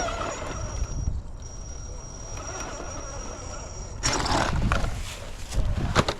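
RC rock crawler driving over rock: a thin steady high whine, with rough scrabbling and knocking of tires and chassis on the rock about four seconds in and again near the end. Wind rumbles on the microphone.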